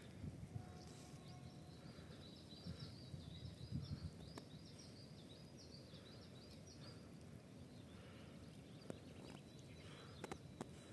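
Faint outdoor ambience with a low rumble, over which a small bird sings a rapid run of short, high chirps for several seconds. A few sharp clicks come near the end.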